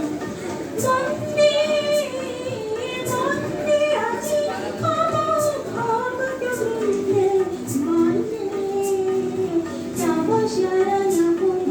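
Female voice singing a patriotic song, with sharp percussive hits recurring about once a second.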